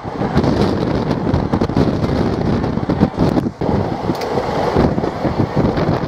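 Passenger train running, heard from on board: steady rumble with irregular clatter of wheels and couplings, and wind buffeting the microphone.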